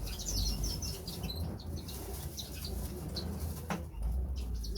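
Canaries chirping with short high twittering calls, over a low rumble of handling noise, with a single sharp knock near the end.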